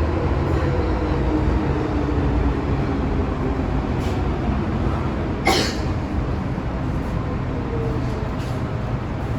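Interior running noise of an MTR M-train: a steady low rumble from wheels and track, with a motor whine that falls in pitch over the first few seconds. A single sharp click comes about five and a half seconds in.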